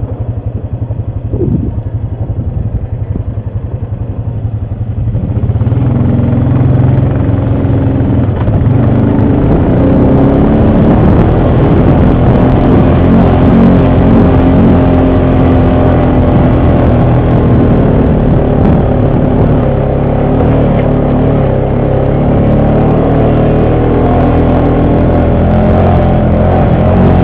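ATV engine running, quieter for about the first five seconds, then louder at higher revs for the rest.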